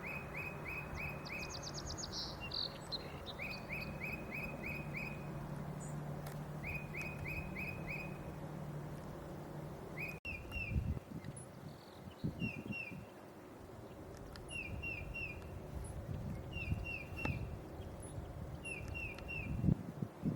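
Tufted titmouse singing: phrases of four or five clear downslurred whistles repeated every couple of seconds, later in shorter groups of two or three. Fainter high calls from other birds run behind, and a low steady hum lies under the first half.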